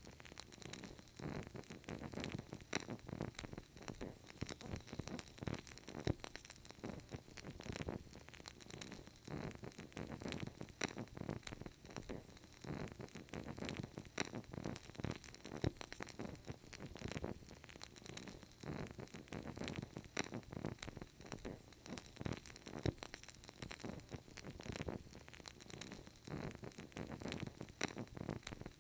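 Burning candle crackling: a steady stream of small, irregular crackles and pops over a faint hiss.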